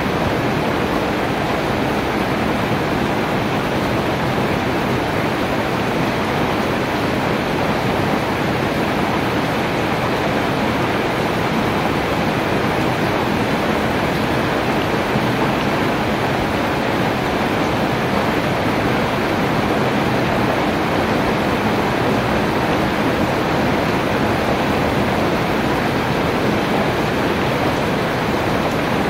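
Heavy rain falling steadily, an even hiss with no breaks or separate drops standing out.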